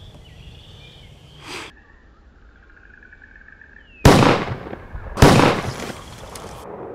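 Two shotgun shots about a second apart, each ringing out and fading briefly.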